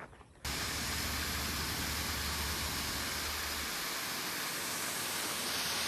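Steady rushing noise of a waterfall. It starts abruptly about half a second in, with a low rumble beneath it for the first few seconds.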